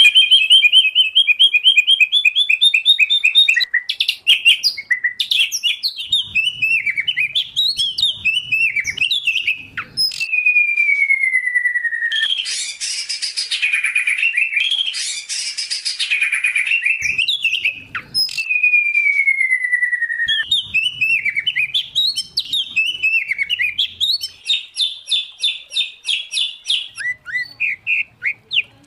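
Loud, varied songbird song from a combined recording of white-rumped shama, oriental magpie-robin and greater green leafbird: fast chattering and trilled phrases, two long falling whistles, and rapid repeated notes near the end.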